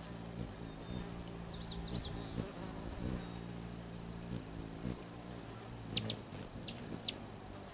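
Buzzing hum of wings at a hummingbird feeder, from hovering hummingbirds and a bee, breaking off and starting again. A quick run of high chattering chips comes about a second and a half in, and several sharp high squeaks come near the end, as the hummingbirds squabble.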